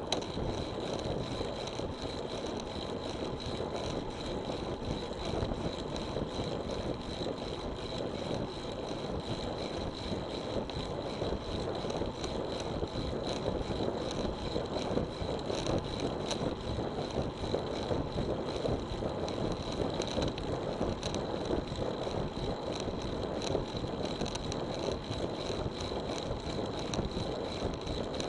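Riding a road bicycle: wind rushing over an action camera's microphone with tyre noise from the road, a steady rumbling hiss. A faint, thin, steady high whine sits above it.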